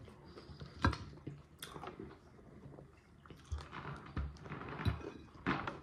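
Quiet eating sounds: faint close-up chewing with a few sharp clicks.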